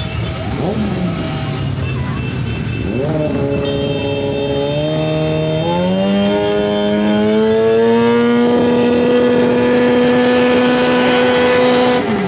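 Motorcycle engine revved up in steps and then held at high, steady revs for about four seconds. The revs drop away sharply right at the end.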